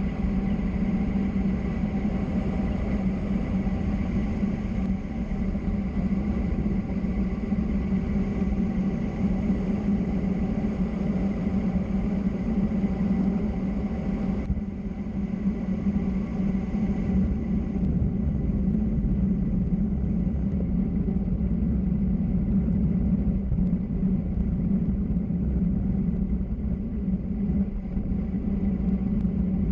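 Steady rumble of tyres and wind noise during a fast downhill road descent, with no break.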